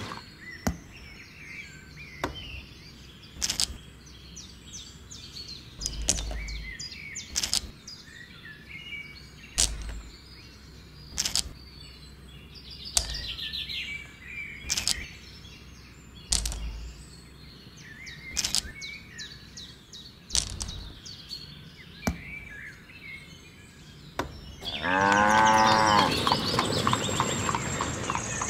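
Small smooth pebbles set down one at a time on sand, with sharp clicks as stone knocks on stone and a few dull thumps, over a background of chirping birds. Near the end a loud animal call with a strong pitched tone comes in for about two seconds.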